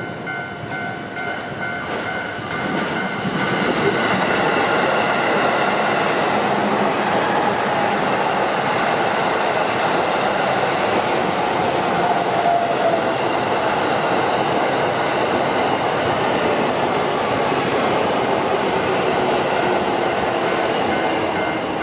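Japanese railroad-crossing alarm bell ringing its repeated 'kan-kan' tones, then a JR Joban Line train passing over the crossing from about three seconds in, its loud, steady running noise covering the bell.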